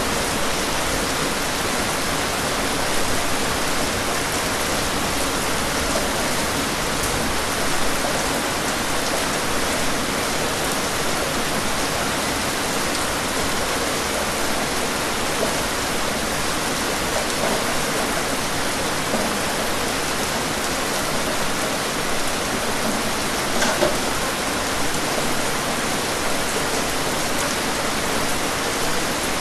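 Steady rain falling on trees and foliage: an even hiss with the odd louder drop standing out.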